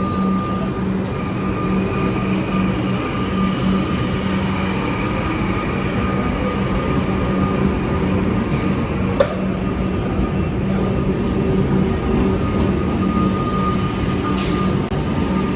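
Electric suburban train running with a steady electrical hum over a rumble, one low tone and a higher whine held throughout. There is a single faint click about nine seconds in.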